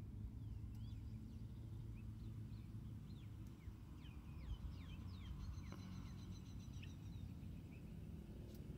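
Songbirds calling: scattered short downward-sweeping chirps, with a fast high trill of repeated notes about halfway through, over a steady low rumble.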